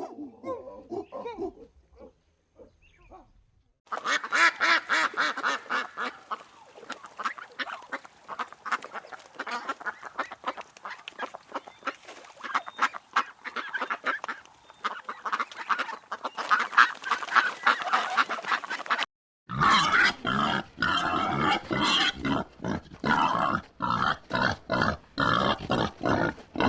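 A flock of waterfowl calling rapidly and continuously, many birds at once. Near the end it cuts abruptly to pigs calling in a quick, uneven rhythm.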